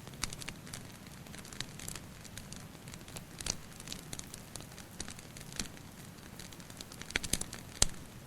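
Wood fire crackling with irregular sharp pops and snaps, the loudest pop near the end, over a steady low rumble, with rain water dripping in a cave.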